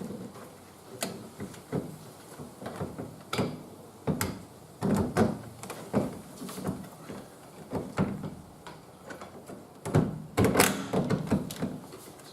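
Irregular knocks, clicks and rattles of a tow mirror and its wiring being handled against a car door, as the wires are fed through the door's mounting hole and the mirror is set in place. Louder bursts of knocking come about four to six seconds in and again near ten to eleven seconds.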